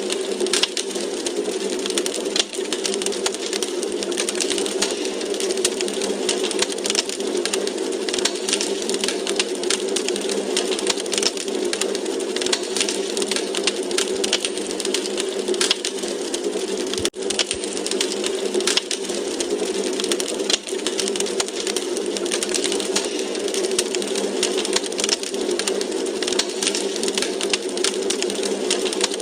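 Wood fire crackling in a fireplace: a dense, steady patter of small pops and snaps over a constant rush, with a momentary dropout about seventeen seconds in.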